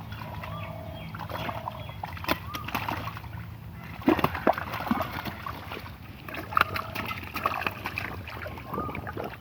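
Water splashing and sloshing in irregular bursts as hands work through muddy river water, loudest about four to five seconds in.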